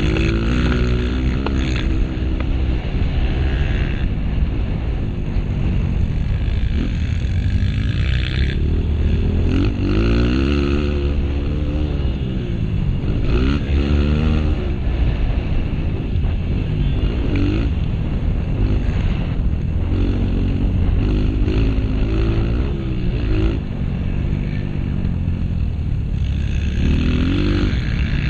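Honda CRF230 single-cylinder four-stroke dirt bike engine being ridden hard on a motocross track, its pitch climbing and dropping every few seconds as the rider revs out, shifts and rolls off.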